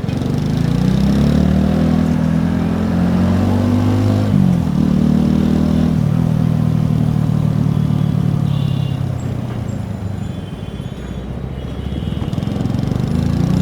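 TVS Apache RTR 4V's single-cylinder exhaust heard close to the pipe, rising in revs under acceleration and dropping sharply at a gear change about four and a half seconds in. It then holds steady and eases off before picking up again near the end.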